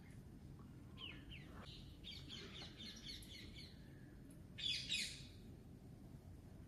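Birds chirping: short high chirps, a quick run of them, then a louder cluster of chirps about five seconds in.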